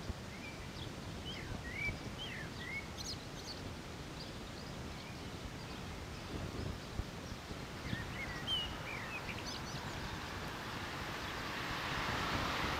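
Small birds chirping in short bursts over steady outdoor background noise. In the last few seconds a distant train approaches, its rail noise growing steadily louder.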